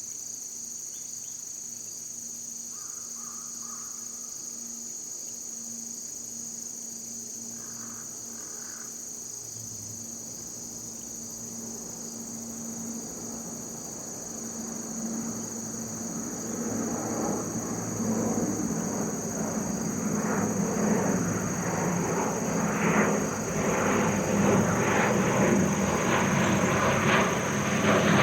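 A steady, high-pitched chorus of insects such as crickets, with two short bird calls in the first third. Over the second half an engine sound rises steadily until it is the loudest sound.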